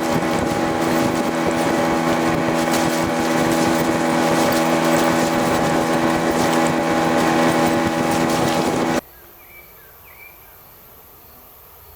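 Kamisu T 9.9 two-stroke outboard motor running steadily at a constant speed, pushing the boat along, with wind buffeting the microphone. About nine seconds in, it cuts off suddenly, leaving a much quieter background with a few faint chirps.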